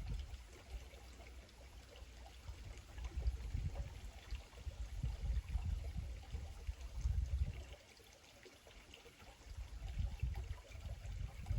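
Small creek trickling and flowing steadily, with a low rumble that swells and fades several times.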